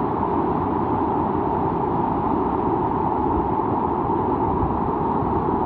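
Steady rushing noise of heavy rain, even and unbroken, with a low rumble beneath.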